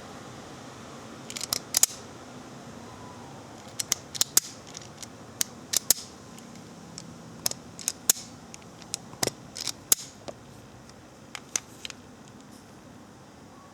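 Wire stripper working on electrical wire: sharp clicks and snips of its jaws closing, cutting and pulling off insulation, coming in small clusters every second or two and fading out near the end.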